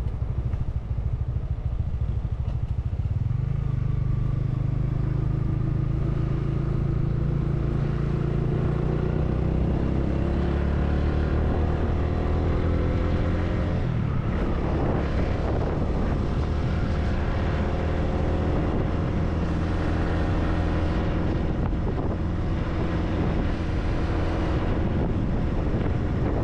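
Motorcycle engine running on the road, heard from the bike. Its pitch climbs steadily over about ten seconds as it accelerates, with a brief rush of noise about halfway through, and then it holds a steady cruise.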